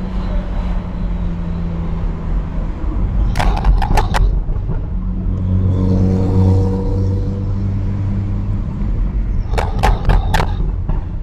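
BMW 335i's N55 turbocharged inline-six exhaust note, picked up by a microphone at the exhaust, running steadily while driving, with the engine note swelling and rising in pitch in the middle under light acceleration. Two short runs of sharp clicks come through, one about three and a half seconds in and one near the end.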